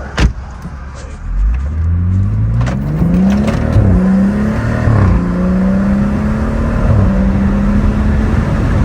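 A car engine pulling away and accelerating, its pitch climbing, dropping at two gear changes a couple of seconds apart, then holding steady. A sharp click comes right at the start.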